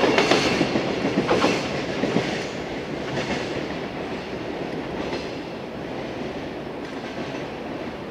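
A container freight train's wagons rolling away, wheels clicking over the rail joints, the sound fading steadily as the train recedes.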